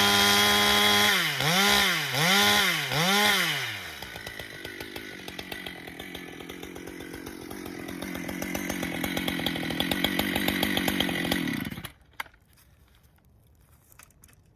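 Husqvarna chainsaw running at full throttle, its pitch dipping four times in quick succession, then dropping to idle for several seconds before it is shut off abruptly near the end. The chain is not grabbing the wood, which the owner puts down to rakers set too high.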